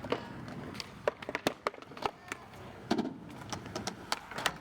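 Skateboards clacking and knocking on pavement: a string of sharp, irregular wooden clacks, several in close succession.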